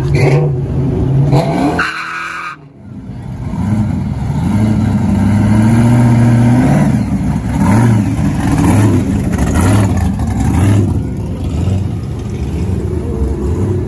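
Loud car engine revving and accelerating, its pitch rising and falling repeatedly. It dips briefly a few seconds in, then runs loud for most of the rest.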